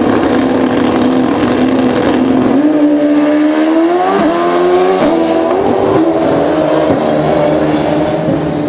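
Pro Street drag motorcycles, a Suzuki Hayabusa among them, launching off the line. The engine note holds steady, then climbs with several quick upshifts and begins to fade near the end as the bikes pull away.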